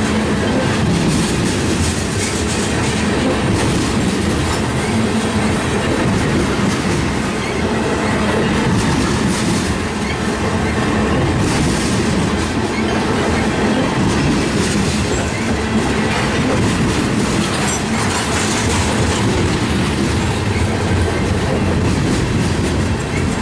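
Freight train tank cars rolling past: a steady rumble of steel wheels on rail, with clicks as the wheels cross the rail joints.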